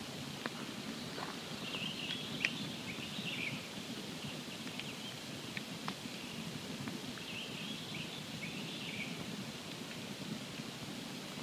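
Campfire burning with a low steady rumble and scattered sharp pops of crackling wood. A bird twitters in two short bouts, about two and seven seconds in.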